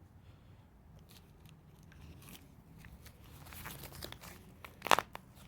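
Quiet tabletop handling of a cup and a hot-chocolate packet: faint clicks and light rustling, then one sharp knock a little before the end.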